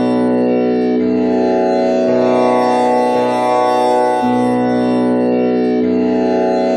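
Tanpura drone in B with one string tuned to komal Ni, its strings plucked one after another in a slow repeating cycle, each new pluck sounding over the still-ringing others so the tone never breaks.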